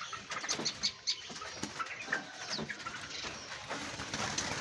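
Many caged small songbirds chirping and twittering, with short high chirps and quick whistled notes overlapping throughout.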